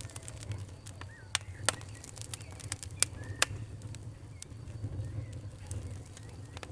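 Wood fire crackling: irregular sharp pops and snaps over a steady low rumble, with three louder pops about a second and a half in and around three seconds in.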